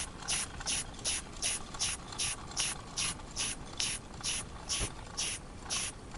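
Wilesco model steam engine running slowly, chuffing in an even rhythm of about two and a half puffs of steam a second, the puffs spacing out slightly near the end. It is leaking steam badly through a hole in the steam chest left by a missing screw on the underside of the cylinder.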